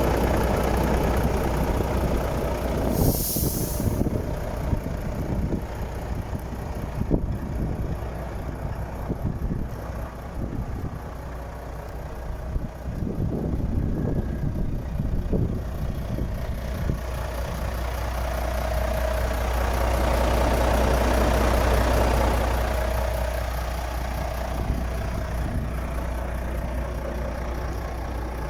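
Volvo FH 13.420 truck's diesel engine idling steadily, with a short hiss of released air about three seconds in and the engine sound swelling for a few seconds around twenty seconds in.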